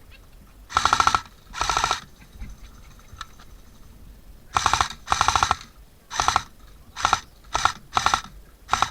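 Airsoft gun firing in short rapid-fire bursts, about nine of them, each a fast rattle of shots lasting under half a second. The bursts come closer together toward the end.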